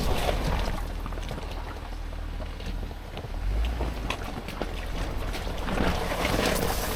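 Jeep Gladiator driving slowly over a rough off-road trail: a low rumble with scattered knocks and rattles, and wind buffeting the microphone.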